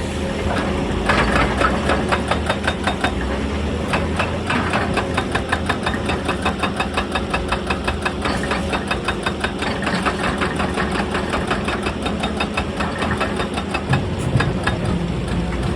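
Excavator's hydraulic rock breaker hammering stone in a fast, even rapid-fire of blows, about five a second, over the steady running of the diesel engine. The hammering starts about a second in and stops shortly before the end.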